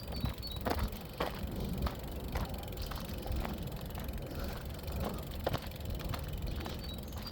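Footsteps on a path at walking pace, about two steps a second, over a low rumble of wind on the microphone. A bird gives a few short high chirps at the start and again near the end.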